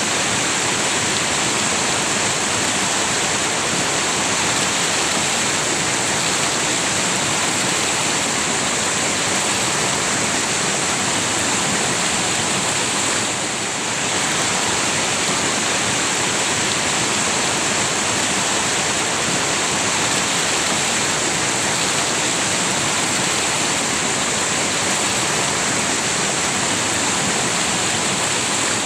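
River water rushing steadily over its bed, an even hiss of flowing water that dips briefly about halfway through.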